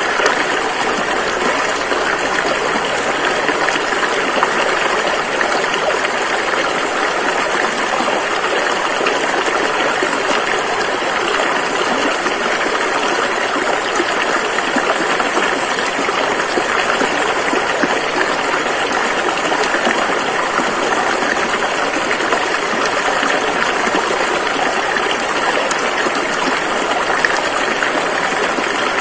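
Rushing river: a steady, unbroken rush of flowing water.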